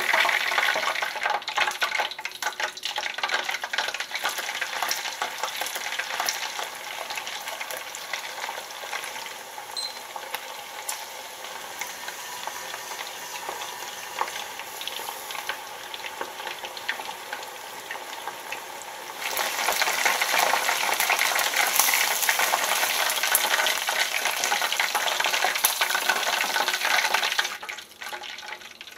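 Chicken pieces frying in hot oil, a steady dense crackling sizzle. It grows noticeably louder about two-thirds of the way through, then falls away near the end.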